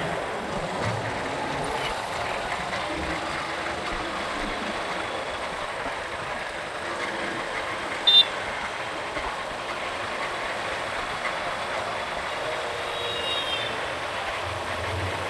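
Steady wind and road noise of a motorcycle ride through city traffic, with a short horn beep about eight seconds in and a fainter one near the end.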